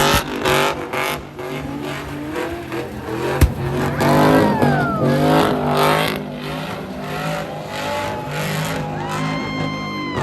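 Truck engines revving in repeated blips, the pitch rising and falling. A steady high tone sounds for about a second near the end.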